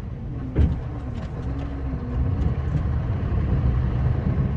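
Scania R560 truck's V8 diesel engine running at low revs, heard from inside the cab, with a single knock about half a second in. The engine grows a little louder in the second half.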